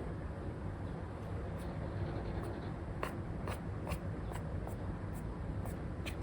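Apple Pencil 2 with an Elecom nib drawing on an iPad's paper-like screen film: scattered light taps and short scratchy strokes, busiest a few seconds in. Under them is a steady low background rumble.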